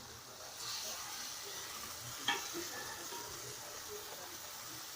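A pan of sofrito sizzling as hot fish stock goes in, the sizzle brightening about half a second in. A single short clink about two seconds in.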